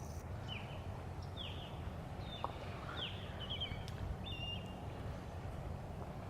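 Birds calling: a string of short, quick chirps, each note curving in pitch, over a steady low rumble.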